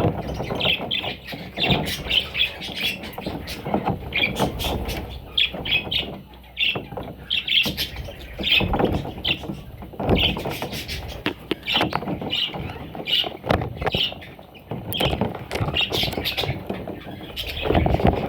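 Pet budgerigars chirping and chattering, short calls repeating every half second to a second, with scattered sharp clicks.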